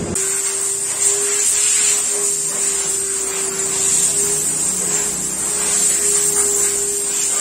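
Car-wash machine running steadily: a constant motor hum with a loud hiss over it.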